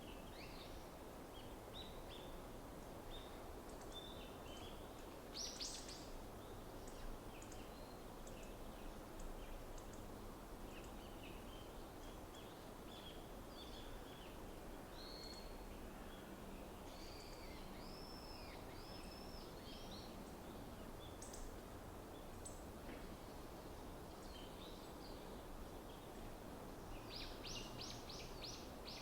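Small wild birds calling in a winter forest: scattered short chirps and high whistled notes, a run of repeated curved notes about halfway through and a quick series of sharp notes near the end, over a steady low rumble.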